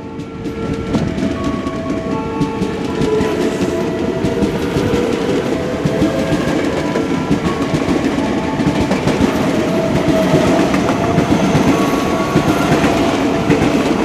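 A train running past close by, its wheels clattering over the rail joints in a dense, continuous rumble that grows a little louder through the middle and eases near the end.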